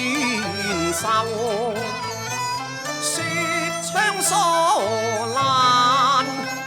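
Cantonese opera music: an instrumental ensemble passage between sung lines, a melody with wide vibrato over steady accompaniment.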